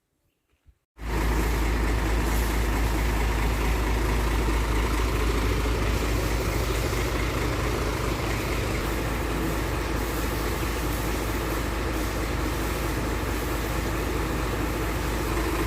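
A vehicle engine, likely a truck's, running steadily with a heavy low rumble. It cuts in abruptly about a second in and holds at an even level.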